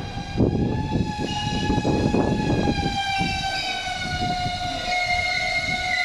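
Tobu Railway Ryomo limited express train arriving at a platform: its wheels rumble and knock over the rails, easing after about three seconds. Over the rumble runs a high whine that slowly falls in pitch as the train slows.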